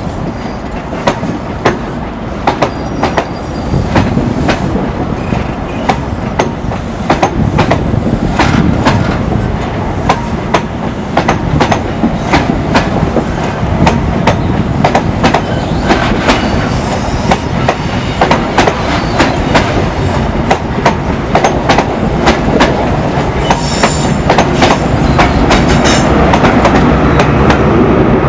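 High Speed Train's Mark 3 coaches rolling slowly past, wheels clicking over rail joints, with a couple of brief wheel squeals. The diesel rear power car comes by near the end, and the low rumble grows louder.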